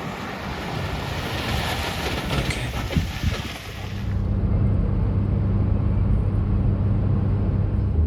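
Wind noise on the microphone outdoors. About four seconds in, a cut to the steady low drone of a car's engine and road noise heard inside the cabin.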